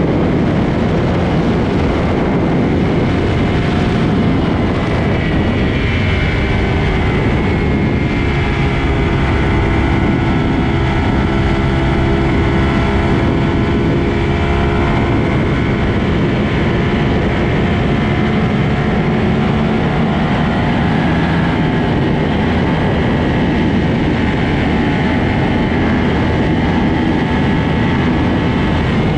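Sportbike engine running hard at highway speed under heavy wind rush. The engine's pitch shows most clearly through the middle stretch and shifts only slowly.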